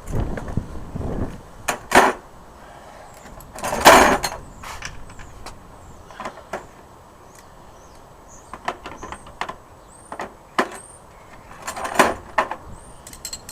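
Hand tools and metal parts clinking and knocking while a motorcycle's front brake caliper is unbolted. The sharpest clatters come about two, four and twelve seconds in, with a run of small ticks in between, and there is wind rumble on the microphone at the start.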